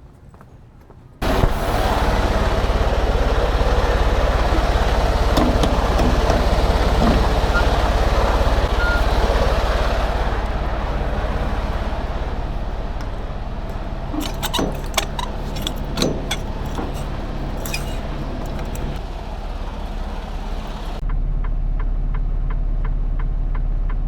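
Semi truck's diesel engine running with road noise, heard from the cab. It starts suddenly about a second in, with a few sharp clicks and knocks in the middle.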